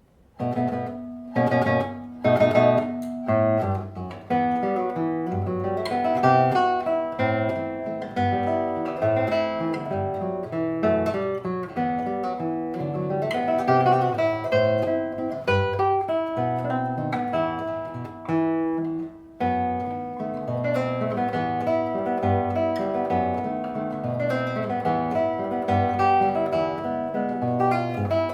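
Solo classical guitar playing a waltz: plucked notes and chords begin about half a second in, strong accented chords in the first few seconds, with a brief break in the sound just after the middle.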